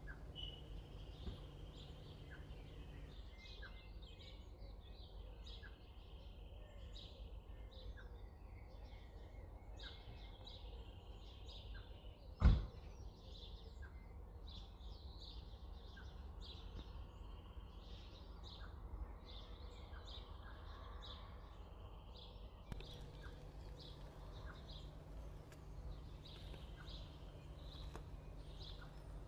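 Faint, repeated bird chirps over a low steady hum of room noise, with one sharp click about twelve seconds in.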